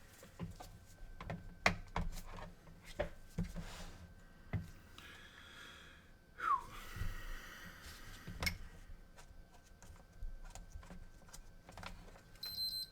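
Scattered small clicks and knocks of hands working on an opened PS4 console, then near the end a short high electronic beep from the console, as its eject button is touched.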